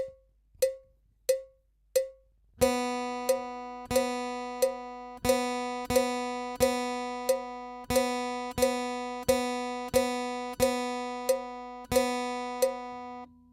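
Four short clicks count in, then a guitar's open B (second) string is plucked over and over at an even beat, about one and a half notes a second. Each note has a sharp attack and rings into the next, all on one pitch, and the playing stops near the end.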